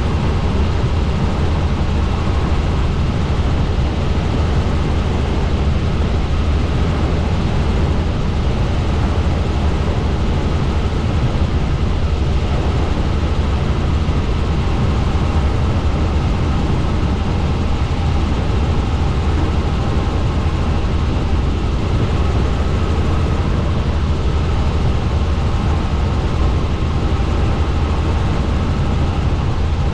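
Helicopter in steady flight: rotor and turbine engine noise with a strong low drone, unchanging throughout.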